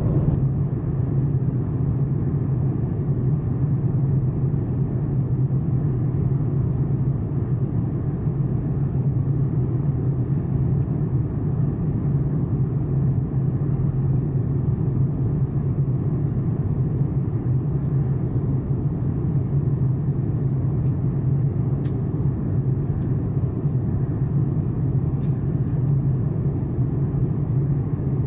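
Steady cabin noise of an Airbus A330-900neo in flight, heard from inside the passenger cabin: engine and airflow noise with a strong, even low hum.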